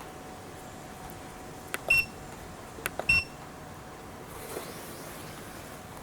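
Two short electronic beeps about a second apart, each right after a click, from an ALLPOWERS S500 portable power station as its buttons are pressed.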